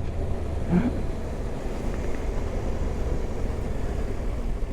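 Yamaha Ténéré 700's parallel-twin engine running steadily on the move, with wind noise on the helmet microphone.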